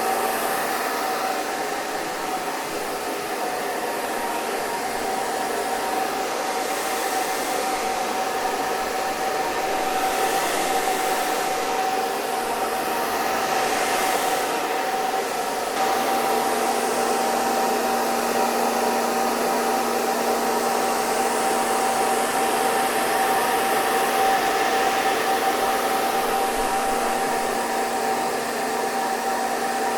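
Electric hair dryer running steadily: a continuous rush of air with a steady motor whine. About halfway through, a lower hum joins it.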